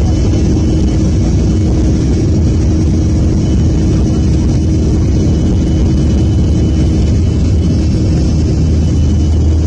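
Airliner jet engines running: a steady deep rumble with a few fixed, unchanging tones above it.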